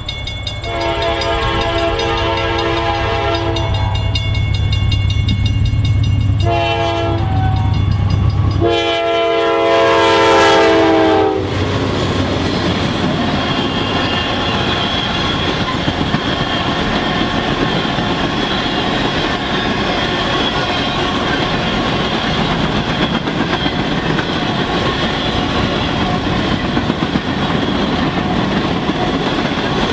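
Norfolk Southern diesel locomotives sounding the horn three times, long, short, long, over the low rumble of their engines, the pitch falling at the end of the last blast as they pass. Then the coal train's cars roll by with steady wheel noise and clickety-clack over the rail joints.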